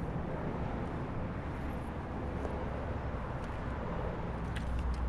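Steady low rumble of motor vehicle noise, with a few light clicks near the end.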